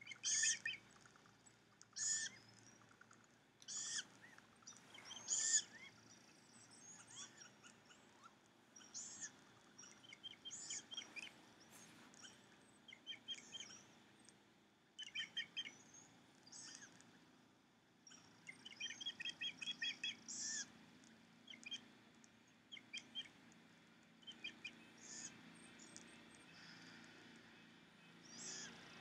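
Birds calling: short, high calls repeated every second or two, mixed with quick runs of chirps of about eight to ten a second.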